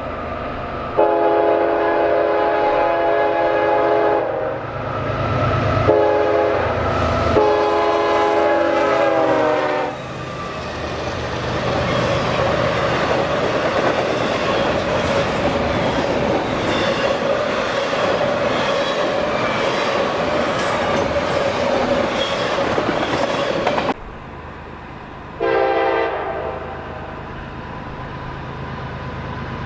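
Freight train locomotive horn sounding a long blast, a short one and another long one. The pitch drops during the last blast as the locomotive passes. Then the train rolls by with a steady rumble and a ringing wheel tone. After a sudden cut there is one more brief horn blast, then quieter rolling noise.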